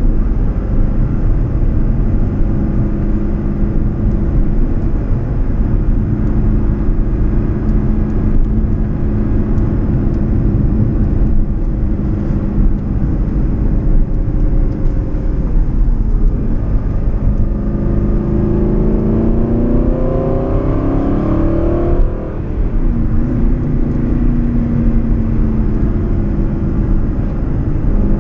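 Aston Martin Vantage GTS V8 heard from inside the cabin over tyre and road noise, running steadily at cruise. About two-thirds of the way through, the revs climb under acceleration, then fall sharply at a manual gear change, and the engine settles back to a steady cruise.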